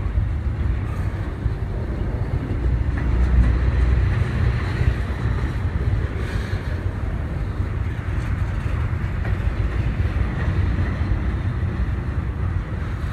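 A passing train, a steady heavy low rumble of wheels and cars on the rails with no let-up.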